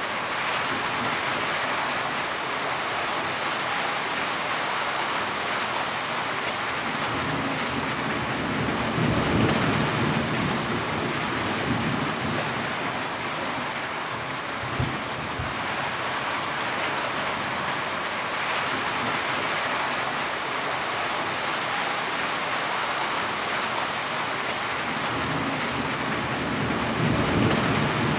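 Steady heavy rain hissing down. Low rolls of thunder swell up about a third of the way in and again near the end, with a short low thump around the middle.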